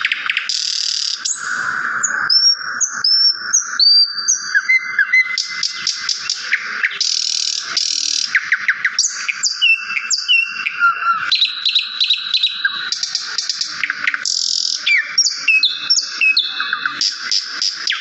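A songbird singing without pause: fast, buzzy trills alternate with short whistled notes that slide up and down.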